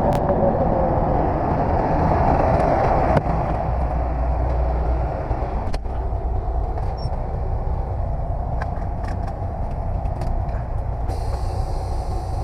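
Semi-truck's diesel engine running steadily as the truck backs in to couple with the trailer's gooseneck, with a sharp metallic click about three seconds in and another near six seconds.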